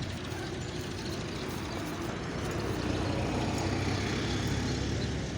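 Steady low rumble of road traffic, swelling slightly in the middle.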